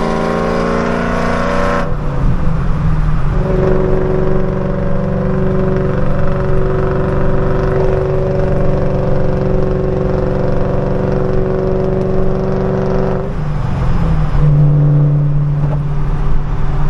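Car engine running steadily under way, with a constant droning tone. It drops and resettles about two seconds in, and changes again about thirteen seconds in, like gear shifts.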